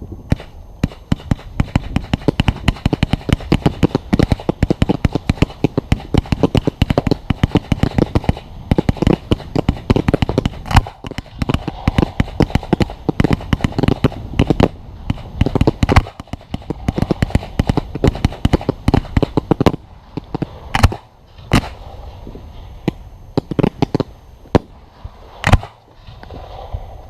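Fireworks going off in a rapid, dense barrage of bangs and crackles, many each second, thinning out after about twenty seconds to a few separate loud bangs.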